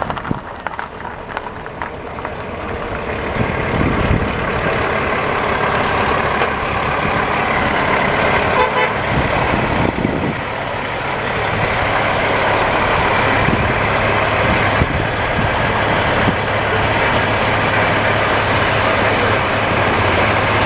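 Heavy diesel truck passing close by, its engine and tyre noise building over the first few seconds, then holding loud and steady.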